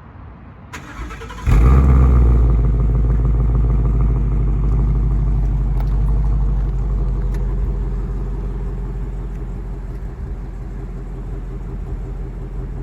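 2017 Ford Mustang GT's 5.0 L Coyote V8 on its stock exhaust with the mufflers in place, cranking and firing about a second and a half in with a loud start-up flare, then settling down toward idle. The tone is called nice but could be a little louder.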